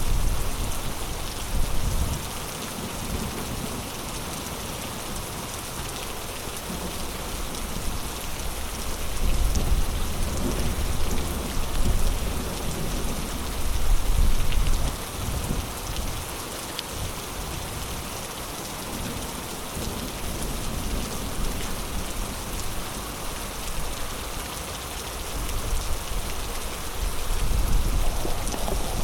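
Heavy rain falling steadily in a dense, even hiss, with low rumbles that swell up several times.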